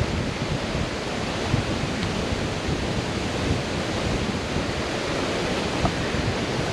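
Steady rushing noise of wind buffeting the microphone, with uneven low fluttering.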